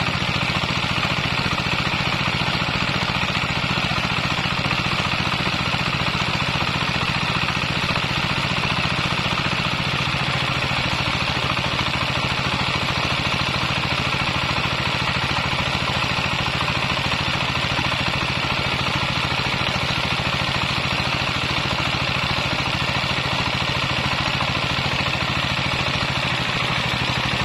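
Kubota 8 hp single-cylinder diesel engine running steadily with an even, rapid beat, now running after its seized piston was freed.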